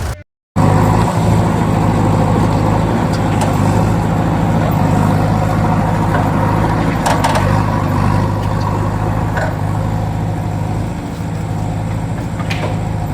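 Vehicle engine running steadily with a low, even hum, starting just after a brief dropout at the start, with a few faint ticks over it.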